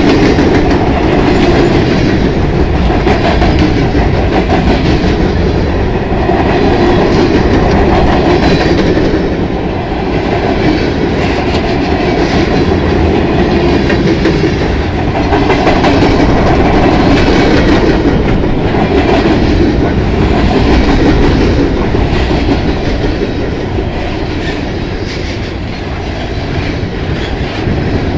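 Loaded freight flatcars rolling past: a loud, steady rumble of steel wheels on the rails, with a continual clatter of clicks, swelling and easing slightly as the cars go by.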